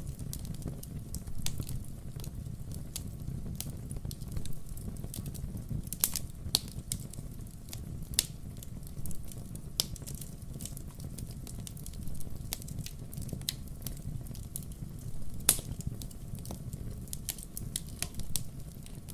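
Wood fire crackling: irregular sharp pops and snaps over a steady low rumble, the loudest pops about six seconds in and again a little past the middle.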